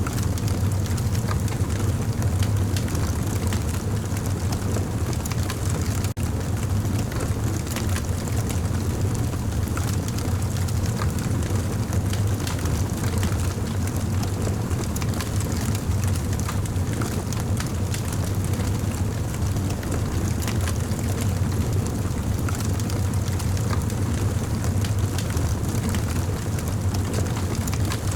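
Campfire burning: a steady low rumble of the flames with frequent small crackles and pops from the wood.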